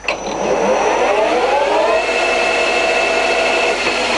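Hafco Metalmaster CL68A lathe spindle and headstock gearing spinning up on its VFD-driven motor: a whine that rises in pitch for about two seconds, then holds steady at 700 RPM.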